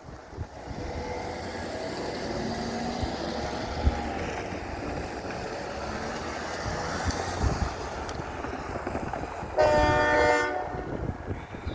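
Train running with a steady rumble, then a single locomotive horn blast of about a second near the end.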